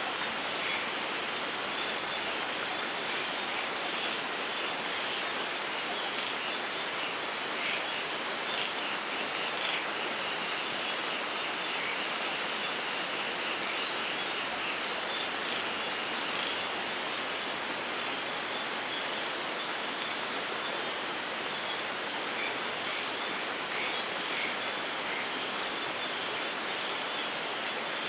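Steady rain falling, an even, unbroken hiss, with faint short high ticks scattered through the middle.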